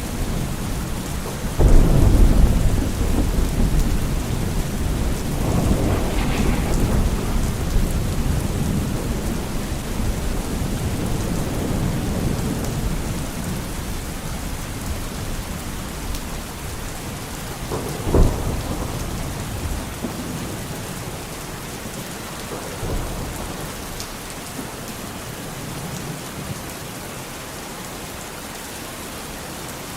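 Steady rain with rolling thunder: a sharp thunderclap about two seconds in, a long rumble around six seconds, and another sharp clap at about eighteen seconds. The thunder fades toward the end and the rain keeps falling.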